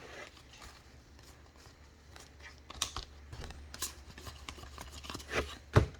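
Trading cards and pack wrapping handled: soft rustling and sliding with a few light, sharp clicks.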